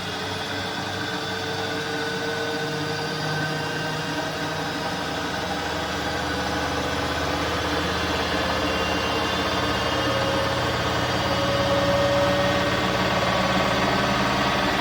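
Bosch Aqua Star washing machine running: a steady motor hum with whining tones, growing gradually louder.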